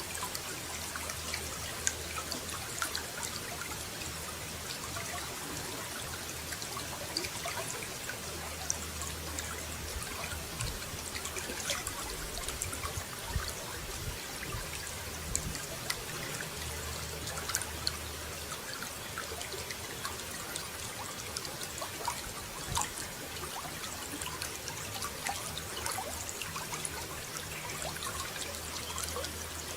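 Running water flowing steadily, with many small sharp splashes scattered throughout.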